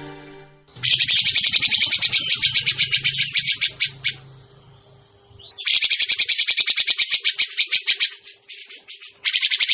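Grey-cheeked bulbul (cucak jenggot) lure call: loud bouts of rapid, high chattering notes, about eight to ten a second, each bout lasting two to three seconds with short breaks between. A fading bit of music sits at the very start.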